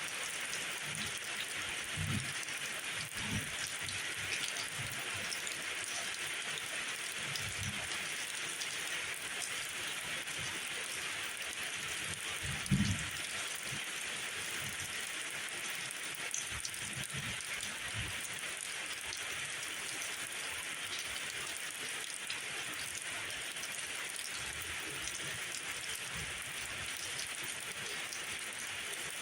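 Steady rainfall: an even hiss of rain with a few soft low thumps scattered through it, the loudest about thirteen seconds in.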